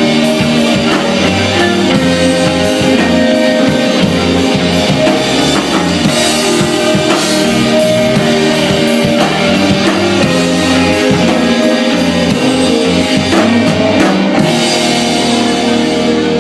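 Rock band playing live: drum kit and guitars in an instrumental passage with no singing. About fourteen seconds in, the drumming stops and held chords ring on.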